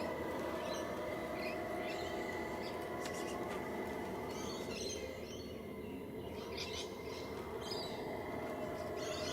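Steady whine from the small electric motors of a model construction vehicle, with short high bird chirps over it.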